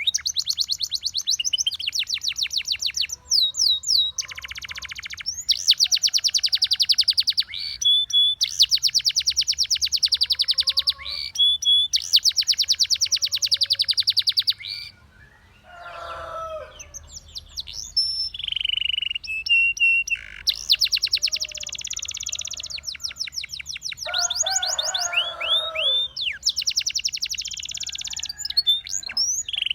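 Russian singing canary in full song: a string of rapid trills, each held a second or two at high pitch, broken near the middle and again near the end by lower, gurgling warbles.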